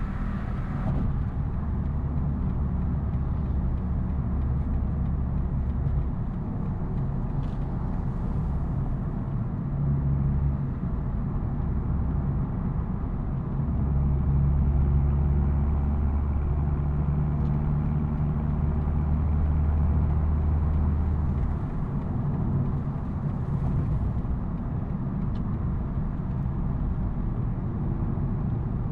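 BMW M240i's B58 3.0-litre turbocharged straight-six running steadily under way, a low exhaust drone over road and tyre noise. The engine note grows a little louder about halfway through, then settles back.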